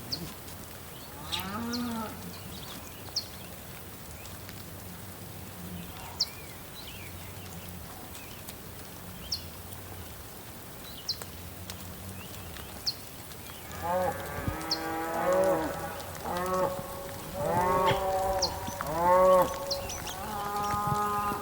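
Cattle mooing: a single call about a second and a half in, then several animals calling over one another from about two-thirds of the way through. Short high chirps recur every second or two.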